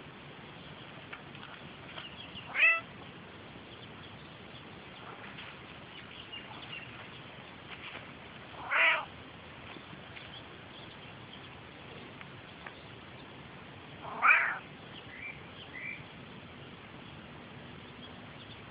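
Australian grey tabby cat meowing three times, each a short call about six seconds apart, with two fainter short calls just after the third.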